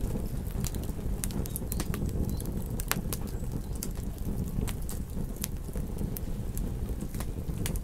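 Campfire crackling: irregular sharp pops and snaps, several a second, over a steady low rumble of burning wood.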